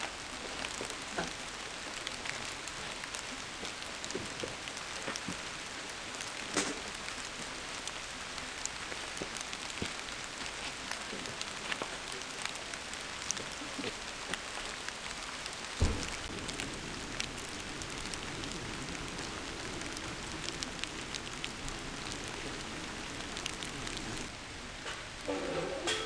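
Steady rainfall, an even hiss dotted with many small drop ticks, with one dull thud about sixteen seconds in.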